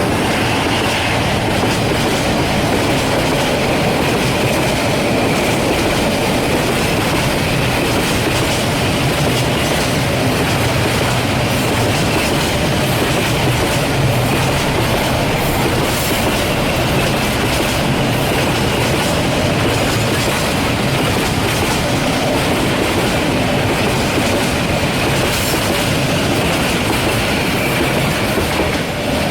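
Freight train wagons rolling steadily past at close range, the wheels clacking over the rail joints.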